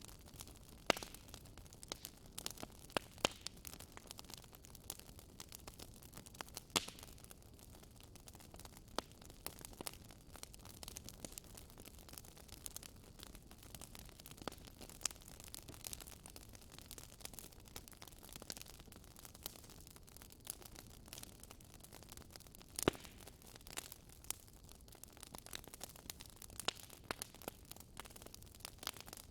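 Fire burning in a fireplace, crackling irregularly with scattered sharper pops over a low steady rush; the loudest pop comes about two-thirds of the way through.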